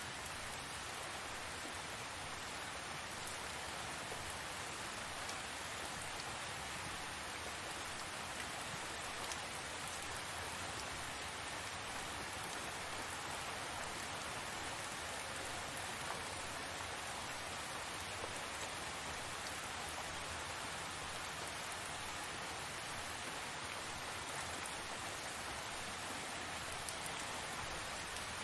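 Steady rain falling, an even hiss of drops pattering on surfaces, with faint individual drop ticks and no change in strength.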